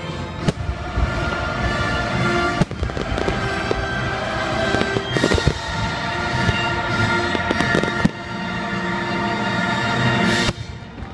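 Aerial fireworks display: shells bursting with several sharp bangs and crackling, over music that stops near the end.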